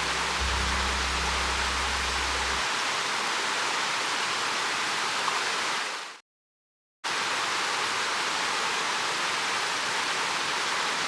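A steady, even rushing noise, like flowing water or wind, with low held music notes fading out in the first few seconds. It drops out abruptly for under a second about six seconds in, then returns unchanged.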